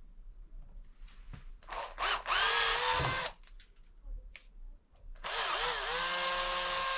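Electric drill with a 3.5 mm bit drilling a clearance hole through a motorcycle handlebar. It runs in two bursts of about one and a half seconds each. Its whine rises as the motor speeds up, then holds steady.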